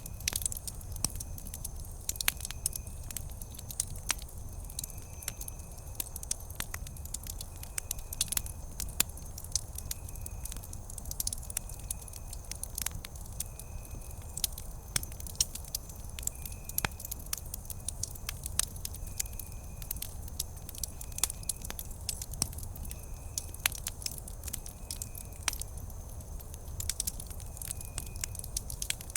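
Wood campfire crackling, with frequent sharp snaps and pops over a low steady rumble of the flames. A faint short high chirp repeats about once a second.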